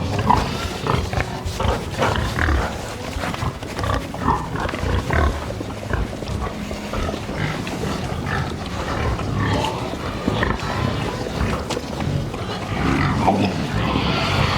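Animal calls, irregular and repeated, with music underneath.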